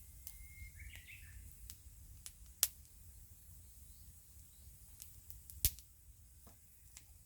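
Wood fire crackling: scattered sharp pops, two of them much louder, over a low steady rumble. A short bird chirp about a second in.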